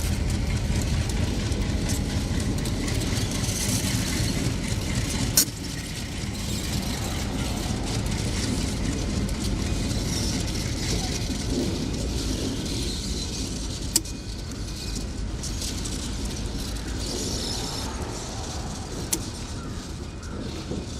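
Diesel locomotive rumbling, a steady low engine drone under broad mechanical noise. Three sharp clicks cut through it, about five, fourteen and nineteen seconds in, and the rumble drops a little after the first.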